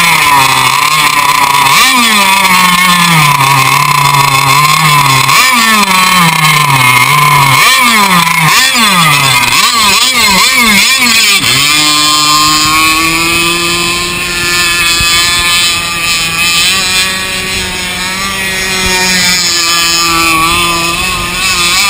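Small two-stroke engine of a radio-controlled boat, revved up and down in repeated throttle blips, then held at a steady higher speed for the second half.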